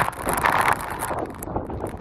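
Gale-force wind buffeting the microphone, with two stronger gusts, one at the start and one about half a second in.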